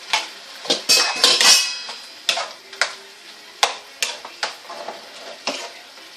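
A cooking utensil clanking and scraping against a pan as chicken pieces are stirred: a run of irregular sharp knocks, loudest about a second in, where they ring briefly.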